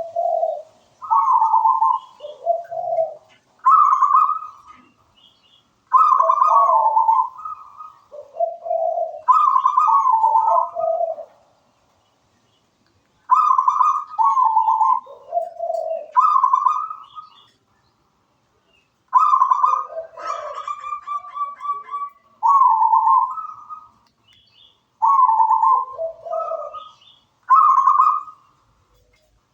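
Zebra dove (perkutut) singing its cooing song: phrases of several rolling coos repeated every few seconds, with short silences between them.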